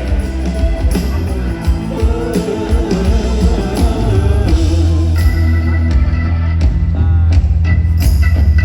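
Live rock band playing loud, with heavy bass, drums and electric guitar, recorded through a phone's microphone in the audience; the playing builds and grows louder about five seconds in.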